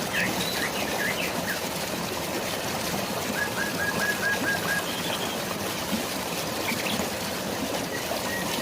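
Steady hiss of rain and flowing water with birds calling over it: several short chirps in the first second and a half, then a quick run of about seven identical notes in the middle, and a thin held whistle near the end.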